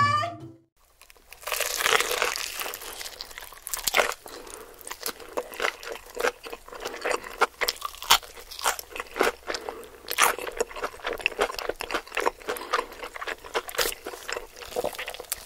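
Close-miked mukbang eating: crispy food being bitten and chewed, a dense run of irregular crunches and crackles that starts after a brief silence about a second and a half in.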